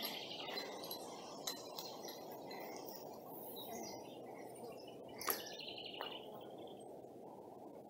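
Faint bird chirps over a steady low background rush, with one sharp click about five seconds in.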